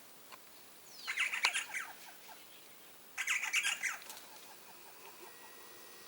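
Birds calling in two short bursts of rapid, harsh notes, the first about a second in and the second about three seconds in.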